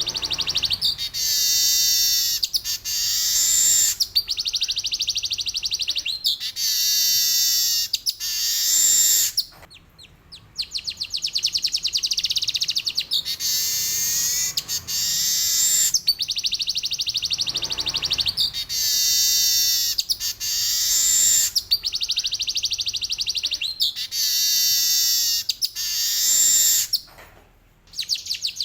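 Male manyar (weaver bird) singing: repeated high-pitched phrases of rapid buzzy chattering, each a couple of seconds long, with sweeping whistled notes woven through. There are brief breaks between phrases and two longer pauses, about ten seconds in and near the end.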